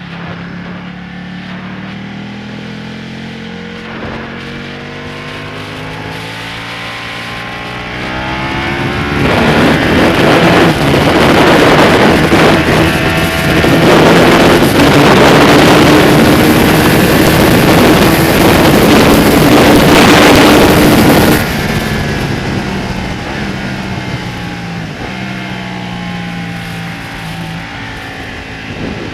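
Ducati Panigale V-twin sportbike engine heard from on the bike, its pitch rising and falling with throttle and gear changes. About eight seconds in, a loud rush of wind noise builds over the engine as the bike runs flat out for about twelve seconds. The wind then drops away suddenly, leaving the engine rising and falling again.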